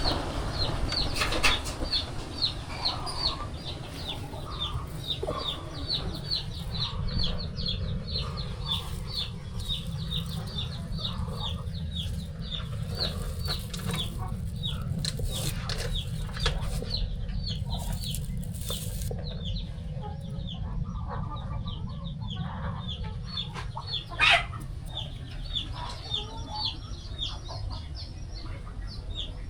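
Young poultry chicks peeping continuously, short high peeps at about three a second, over a low steady rumble, with one sharp knock about 24 seconds in.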